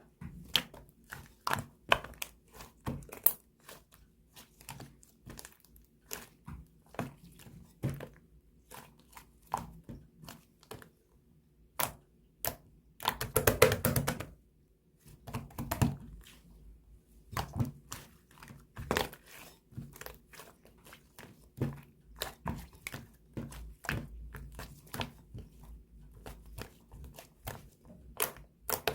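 Cream slime being squeezed, poked and folded by hand: an irregular run of sticky clicks and small pops, with a few louder squishing stretches about halfway through.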